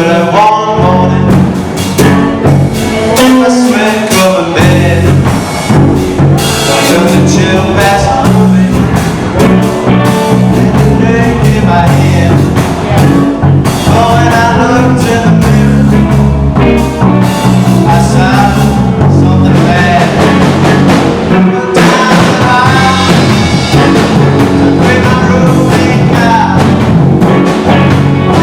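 Blues-rock band playing a song, with electric guitar over a drum kit.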